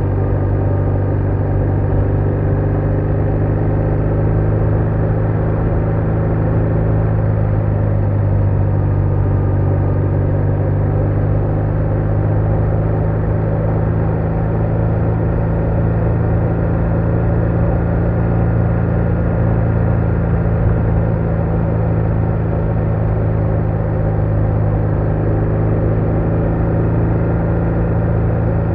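BMW R1200R boxer-twin motorcycle engine running under way at a steady engine speed, a constant low drone with little change in pitch.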